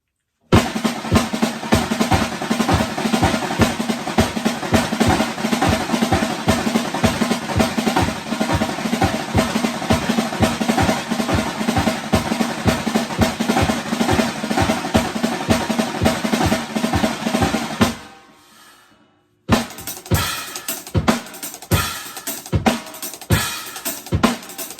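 Drum kit played solo: a dense, busy pattern over a regular low beat for about eighteen seconds, which stops and rings away. After a short pause it starts again with sparser, separated strikes.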